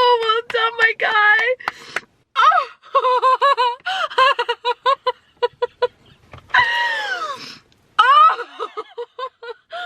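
A woman's wordless emotional outburst, part crying and part laughing: a run of short, high-pitched gasping sobs or laughs, with a long falling wail about two-thirds of the way through.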